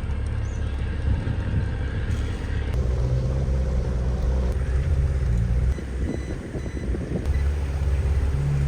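Petrol outboard motor of a small fishing boat running steadily under way. About six seconds in its sound drops away for a second or so, then steadies again.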